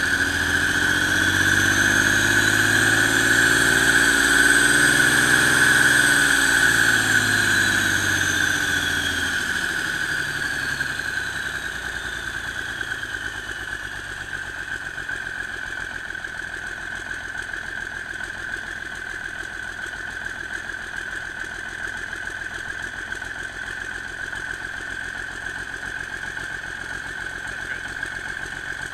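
Cummins NTC-335 (855) turbocharged inline-six diesel revving up and back down. Its pitch and a high turbo whine climb for about five seconds, then wind down over the next several seconds, and the engine settles into a steady idle. A steady high-pitched whine runs underneath throughout.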